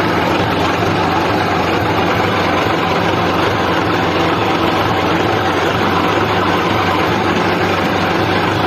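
Tractor engine running steadily at a constant speed, a loud, unchanging low engine note.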